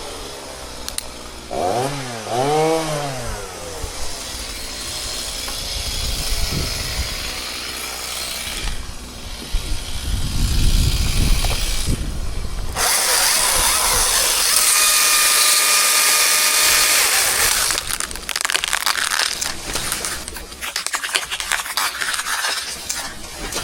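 Chainsaw revving up and down in quick blips near the start, then running. In the middle it runs at full throttle for about five seconds, as in a cut. Near the end come irregular cracks and rustling.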